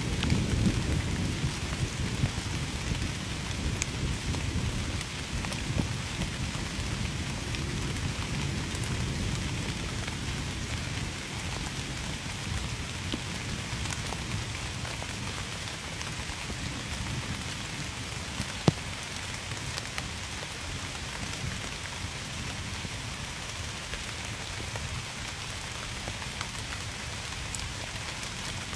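Heavy rain falling steadily, with a low rumble of thunder that fades away over the first several seconds. A single sharp click comes about two-thirds of the way through.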